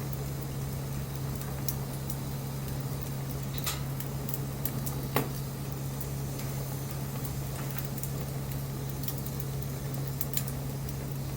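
Burning wood fire crackling, with scattered sharp pops and one louder pop about five seconds in, over a steady low hum.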